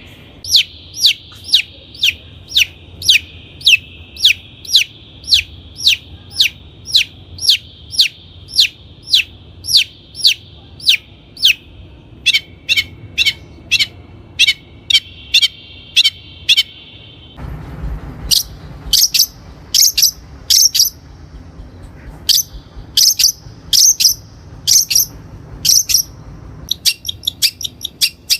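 Long-tailed shrike (cendet) calling: a long series of short, sharp, downward-slurred notes about two a second, which quicken past the middle. After an abrupt change to another recording, louder notes follow and break into a rapid run near the end.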